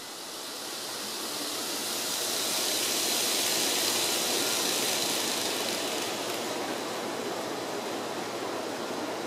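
N-gauge model train running along the track, a steady whirring rumble of motor and wheels on rail. It swells as the train draws near, loudest three to four seconds in, then eases off a little.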